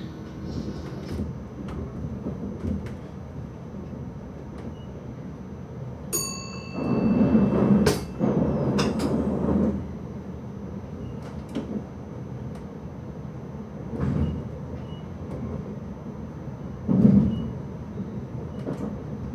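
Electric intercity train heard from its driving cab while running, a steady low rumble. Sharp clicks and knocks come as the wheels cross a series of switches and rail joints. There is a brief high tone about six seconds in, and a louder stretch of rumble from about seven to ten seconds in, with shorter loud swells later.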